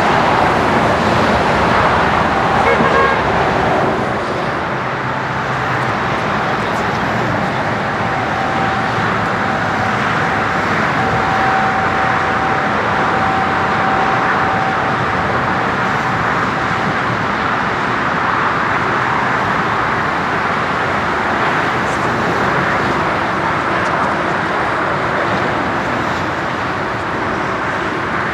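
Jet engines of a large airliner, mostly a Boeing 747-400ERF freighter, running with a steady rushing noise and a faint steady whine. The level drops slightly about four seconds in.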